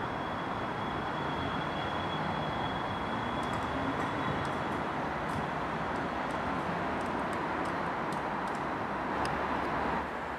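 SBB double-deck IC2000 push-pull train moving at low speed through the station, with a steady rumble of its running gear. A thin high whine fades out about halfway, and faint light clicks follow.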